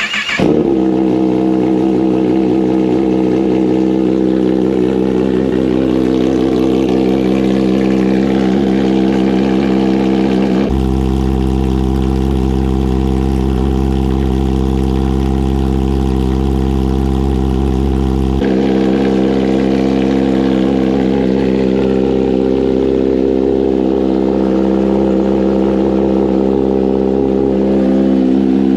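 A Kawasaki ZX-10R's inline-four engine, fitted with an aftermarket exhaust, idling steadily just after a cold start. A deeper low rumble sits under it for several seconds in the middle.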